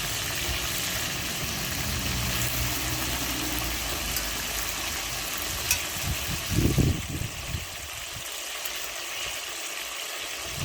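Chicken pieces frying in hot oil in a pot, a steady sizzle. A low rumble runs underneath and drops away about seven seconds in, after a couple of thumps.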